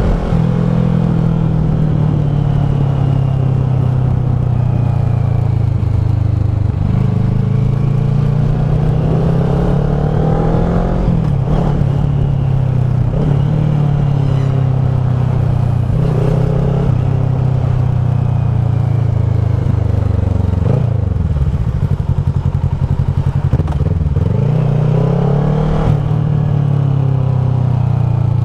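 Kawasaki ER-6f's parallel-twin engine heard through a Leo Vince SBK slip-on exhaust while riding, its pitch climbing and dropping again and again as the throttle is opened and closed. It falls to a low point about three-quarters of the way through, then climbs again.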